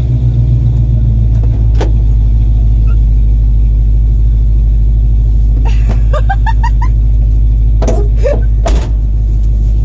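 A 1978 truck's engine running with a steady, loud low rumble. A few sharp clicks sound about two seconds in and near the end, and a short run of rising chirps comes about six seconds in.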